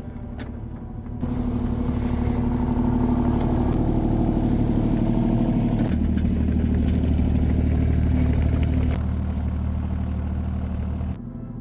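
An engine running steadily, with a low hum that gets louder about a second in, shifts pitch around the middle and drops off near the end.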